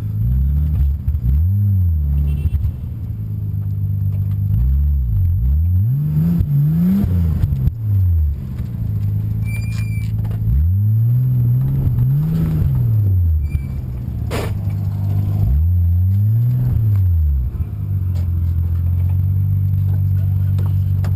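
Nissan Skyline R33 GTS-t's turbocharged RB25DET straight-six idling, then revving up and dropping back several times in short bursts of acceleration before settling back to a steady idle near the end.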